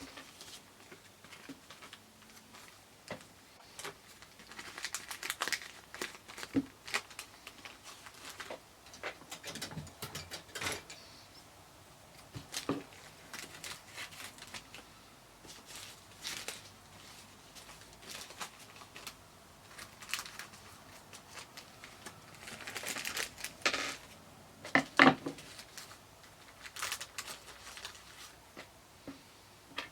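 Hands working on a gauge cluster's odometer drive: small plastic gears and parts clicking, tapping and crinkling in irregular clusters, with the loudest knock about 25 seconds in.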